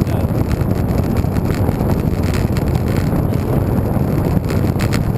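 Wind buffeting the microphone while cycling, a loud, steady low noise with a few faint ticks near the end.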